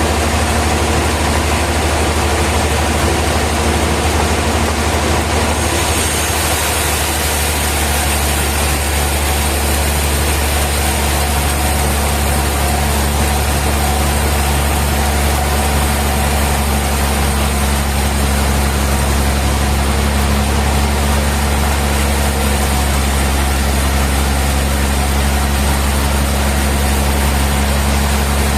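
Heavy sawmill machinery running steadily with a deep hum and a constant hiss; about six seconds in the higher hiss gets a little brighter.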